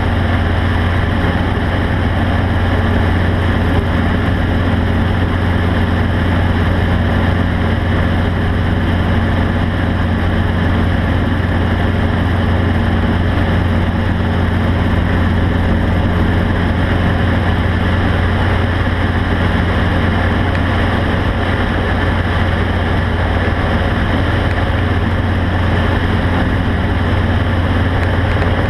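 A vehicle engine running steadily with a low drone, under a constant noisy hiss and no change in pitch.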